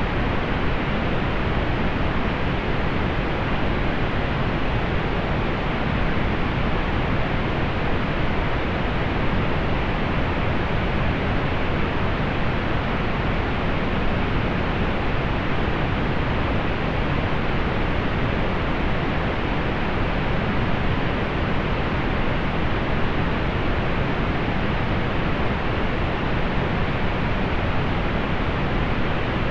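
Steady synthetic pink noise, an even hiss with its energy weighted toward the low end and softened in the highs, unchanging throughout.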